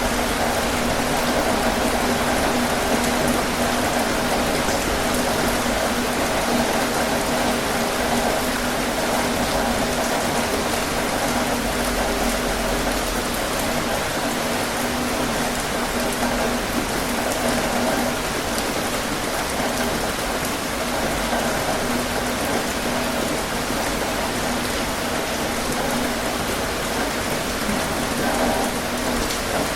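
Heavy rain drumming steadily on a tin roof.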